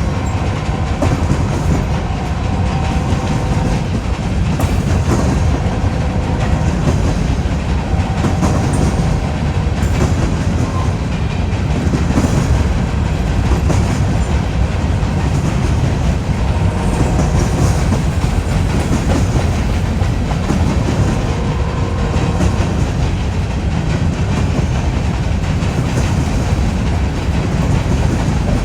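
Freight train cars rolling steadily past, wheels clacking over the rail joints, with faint ringing tones coming and going several times.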